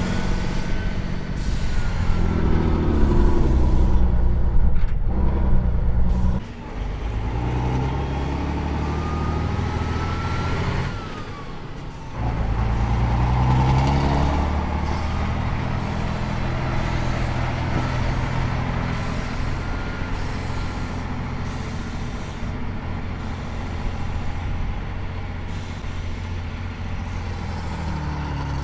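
Heavy truck engine running hard, its pitch rising and falling as it revs up and down, with a thin whine that climbs over several seconds. The loudness dips briefly twice, about six seconds in and again near twelve seconds.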